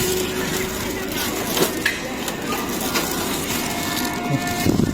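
Empty plastic water bottles crackling and crunching as they are handled, a dense run of small clicks and crinkles.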